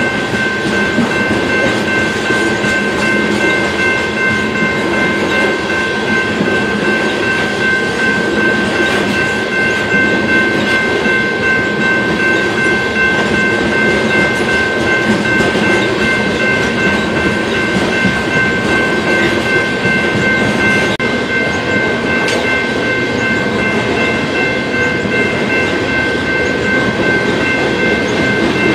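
BNSF train running past, with the steady noise of wheels on rail. A steady high-pitched ringing of several tones runs through it.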